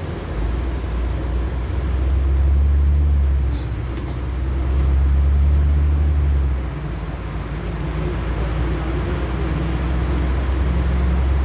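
LiAZ-6213.65 articulated city bus under way, heard from inside the cabin: a deep engine drone with road noise that swells louder three times as the bus pulls away and eases off.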